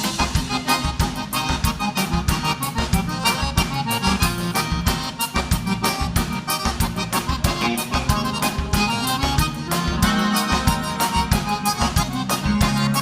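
Live gaúcho vanera band playing an instrumental break, an accordion carrying the melody over a quick, steady drum beat.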